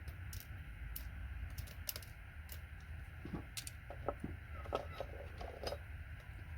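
Light, irregular clicks and ticks of small metal connector pins and plastic connector housings being pulled apart and handled, over a steady low hum.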